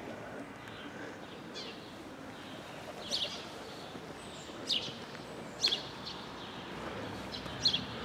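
A small songbird chirping: four short, high, falling chirps spaced about a second apart, starting about three seconds in, over a steady low background hum.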